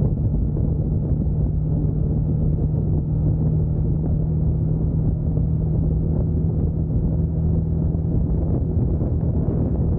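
2021 Yamaha MT-09's inline three-cylinder engine running at steady revs while the bike cruises along, with one even engine note.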